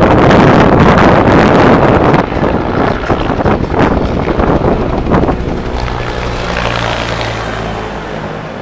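Loud wind buffeting the microphone, then from about five seconds in the steady drone of an aircraft engine, fading toward the end.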